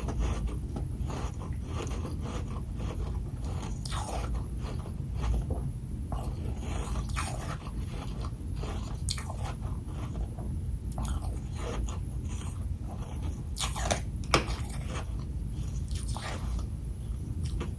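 Close-up chewing and crunching of freezer frost: irregular crisp crunches with one sharper, louder crunch about two thirds of the way through.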